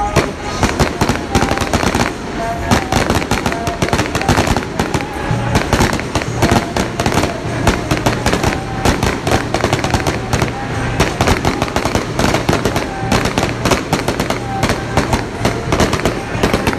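Firecrackers and fireworks going off in a dense, continuous barrage of rapid cracks and bangs.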